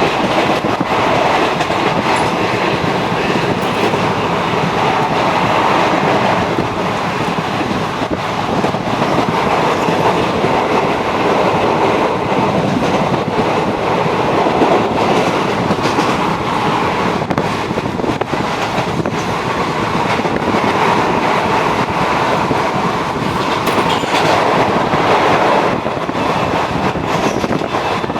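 Raptiganga Express (train 15006) running at speed: a loud, steady rumble of wheels on the track with a clickety-clack of wheels over rail joints.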